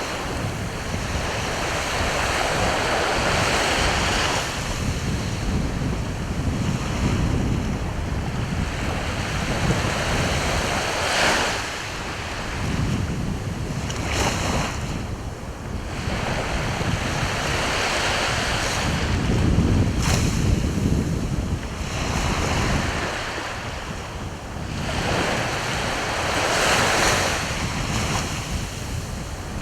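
Sea waves breaking and washing ashore, swelling and easing in repeated surges every few seconds, with wind rumbling on the microphone.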